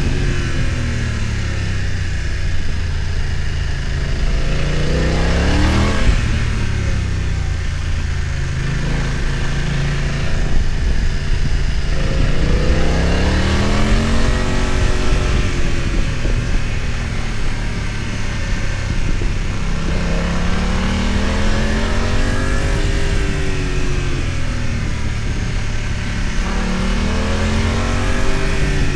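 BMW F900 XR motorcycle's parallel-twin engine running under load, its pitch falling and rising several times as the throttle is opened and closed, with a quick sharp rise about six seconds in. Steady wind hiss lies over it.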